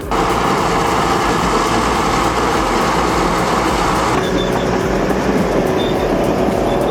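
Caterpillar D8H crawler tractor pulling a 463 scraper and a D8K dozer working alongside it, their diesel engines running under load in a loud, steady mechanical din. The sound turns duller about four seconds in.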